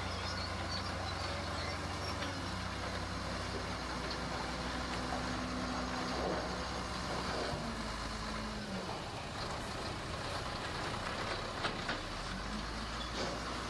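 Heavy diesel construction machinery running, its engine note dropping around the middle and rising again near the end, with a few light knocks.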